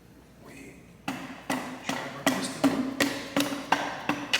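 A piston being tapped down into a Cummins 6BT cylinder bore through a band-type ring compressor. From about a second in there are about ten sharp taps, two to three a second, each followed by a short metallic ring.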